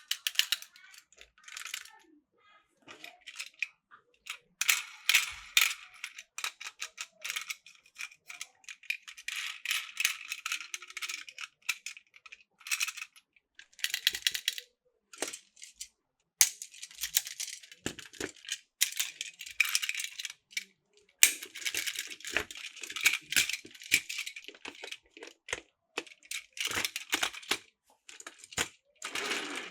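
Plastic Plarail toy train track and parts clicking and rattling as they are handled, in irregular bursts with short pauses.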